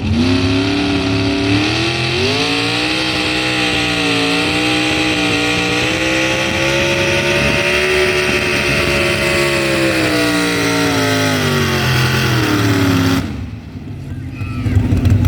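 Pulling truck's engine held at full throttle as it drags the sled down the track, its pitch rising and falling slowly. About 13 seconds in it backs off sharply and drops to a low rumble.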